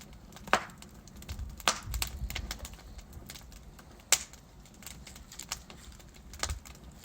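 Burning logs in a fireplace crackling with many small irregular clicks and a few sharp pops: one about half a second in, one near 2 seconds, the loudest about 4 seconds in, and one near the end. A low steady rumble runs underneath.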